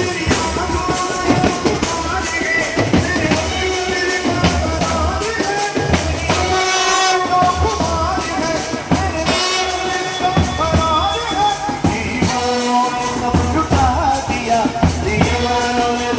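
Indian band playing a Hindi song tune: a wavering melody line over a steady drum beat.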